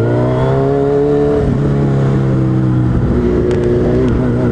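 Suzuki Hayabusa's inline-four engine running at low, steady revs. It rises slightly in the first second, eases off about a second and a half in, then holds steady.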